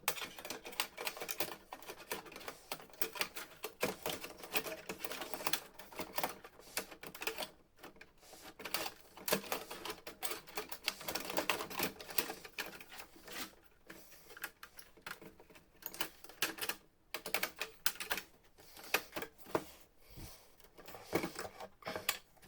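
Rapid irregular clicking and rattling of plastic printer parts being handled and fitted together by hand, with brief pauses.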